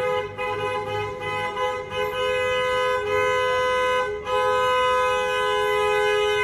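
Car horn held down in one long blast: two steady tones sounding together, briefly broken about two seconds and four seconds in.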